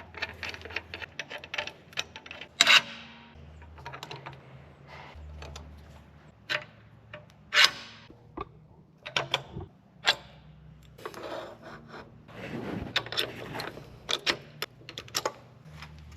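Irregular clicks, knocks and clatter of a jack and a block of wood being handled and set in place under a truck's front bumper, with a few louder knocks about three seconds in and near eight seconds.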